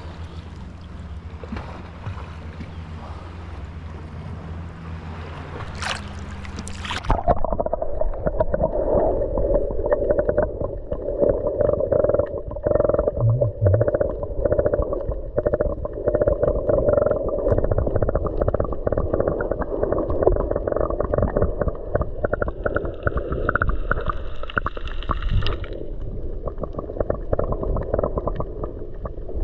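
A boat engine drones steadily at a low pitch for about seven seconds, then the sound changes abruptly to muffled underwater sound: bubbling and gurgling water, dull and without any high tones.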